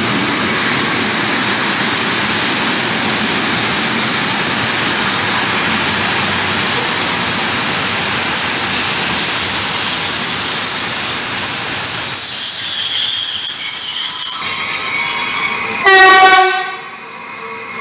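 A long intermodal freight train rolling past at speed, a steady loud wheel-on-rail rumble, with thin high wheel-squeal tones over it from about ten seconds in. Near the end, one short, loud blast of a locomotive horn, after which the noise drops away sharply.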